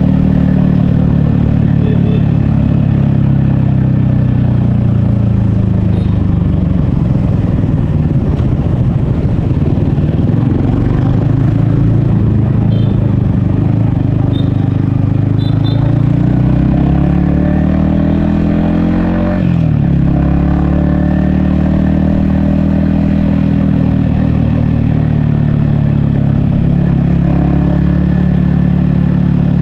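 Yamaha XSR155's 155cc single-cylinder engine and exhaust running under way, heard from the rider's helmet. The engine note holds steady, climbs for a few seconds about two-thirds of the way through, then drops sharply and settles steady again.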